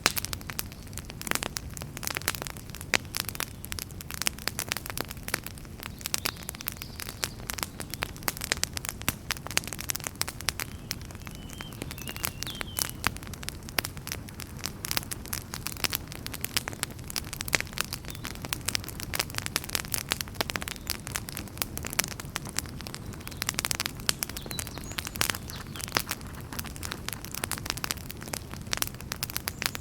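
Wood fire burning in a fireplace, with dense, irregular crackles and pops over a steady low rumble and hiss.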